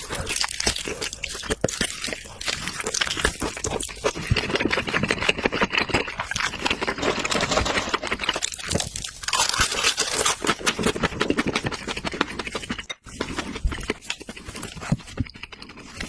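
Close-miked mukbang eating of grilled meat: dense, irregular wet chewing and crunching, with a sudden brief gap about thirteen seconds in.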